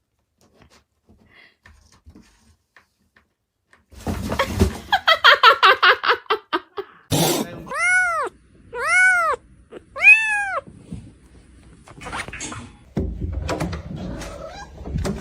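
A cat calling: a fast-pulsing, falling yowl about four seconds in, then three drawn-out meows about a second apart.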